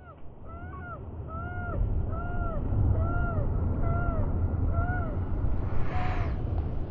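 A bird calling six times in an even series, about one call every eight-tenths of a second, then one higher call about six seconds in, over the steady low rumble of the boat's motor.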